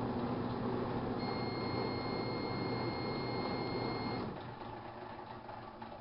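1978 GE Dual Wave microwave oven running with a steady hum. A steady high-pitched tone sounds for about three seconds, and then the oven shuts off about four seconds in, leaving faint room noise.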